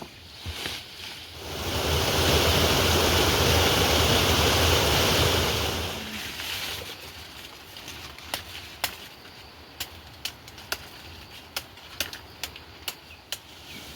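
Heavy rain with wind: a steady rush that surges loud for about four seconds, with a low rumble on the microphone, then eases. Afterwards single heavy drops tap sharply on a nearby surface, a dozen or so over the last six seconds.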